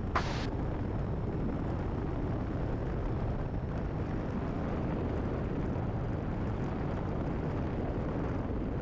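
Cessna 172RG's engine and propeller making a steady drone at full power in the climb-out after a touch-and-go, with one short blip just after the start.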